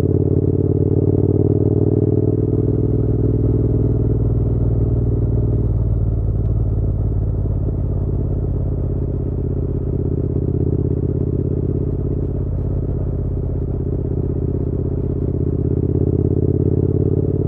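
Triumph Bonneville parallel-twin motorcycle engine running under way, a steady engine note that shifts in pitch a few seconds in and again near the end.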